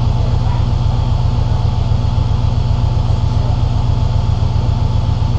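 2005 Subaru Impreza WRX STI's turbocharged flat-four engine idling steadily, low and even, with no revving.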